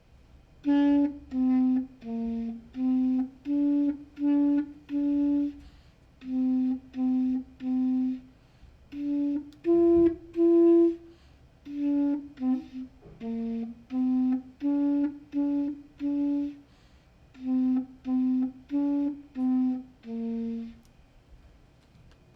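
Solo clarinet playing a simple tune in its low register, a string of short, separated notes with brief breaks between them.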